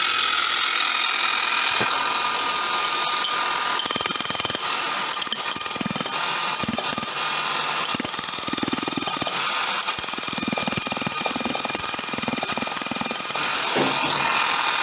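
DeWalt D25901 electric demolition hammer switched on and running continuously, its motor whining under rapid hammering blows. The hammering mechanism, which had failed from a broken connecting rod, is working again after the repair.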